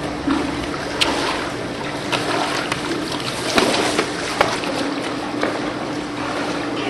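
Water sloshing and splashing, with sharp little splashes now and then.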